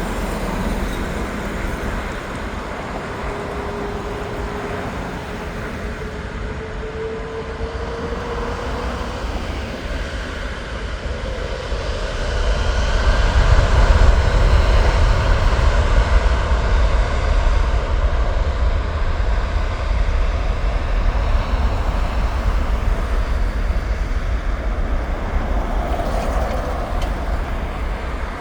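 Jet airliner's engines during the takeoff run: a steady rumble with a slowly rising whine, growing louder about twelve seconds in to a deep low roar that then eases off slowly.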